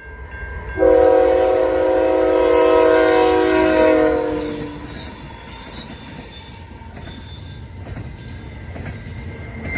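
CN locomotive horn sounding one long multi-note chord for about four seconds, starting about a second in, over the rumble of the train. After it the train rolls on with low rumble, occasional clicks of wheels over rail joints and a thin wheel squeal.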